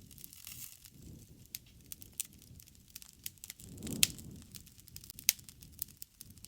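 Wood campfire crackling with irregular sharp pops, the two loudest about four and five seconds in, over a low rush of flame that swells around the four-second mark.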